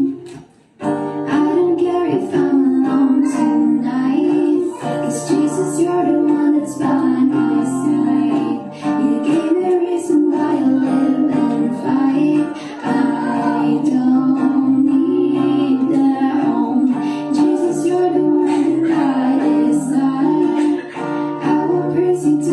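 A solo voice singing a slow original song over acoustic guitar accompaniment, with a brief break about half a second in.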